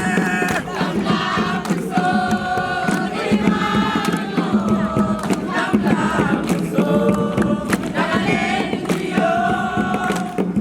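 A group of young voices singing together in chorus, a chant-like camp song with held notes, over steady rapid claps or beats.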